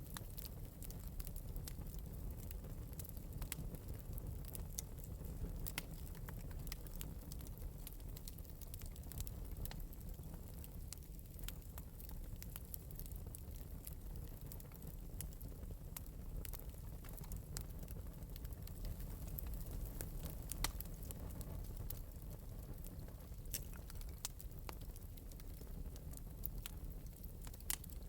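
Small wood fire crackling in an open metal fire pit, with scattered sharp pops and snaps over a steady low rumble of burning.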